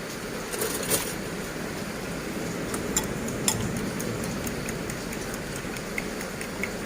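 Eggs being beaten in a bowl with a utensil, giving a run of quick, light clicks against the bowl.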